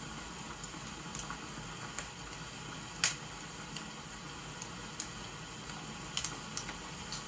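Wood fire crackling, with scattered sharp pops (the loudest about three seconds in), over a steady hiss of rain.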